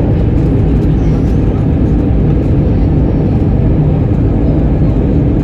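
Loud, steady noise heard inside the cabin of an Airbus A319 as it lands, mostly a low rumble that holds level throughout.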